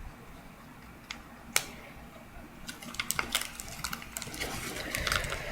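Paper and sticky tape being handled: scattered light clicks and crinkles, a couple of sharper ticks early on, getting busier in the second half.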